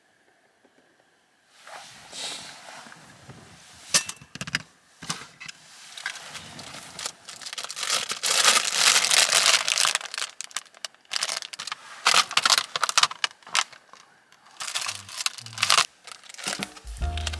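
Irregular crinkling and crumpling of packaging handled by hand, with scattered sharp clicks, starting after a short quiet spell and densest in the middle.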